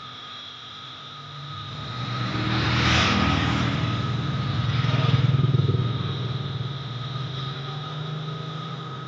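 A motor vehicle passing close by, its engine and tyre noise growing louder to a peak about three seconds in, swelling again around five seconds, then fading away.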